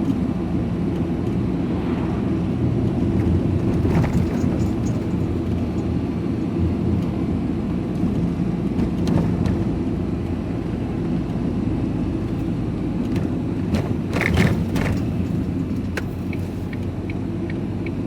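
Vehicle engine and road noise heard from inside the cab while driving, a steady low rumble. A few brief clicks or rattles come through about four seconds in and again about fourteen seconds in.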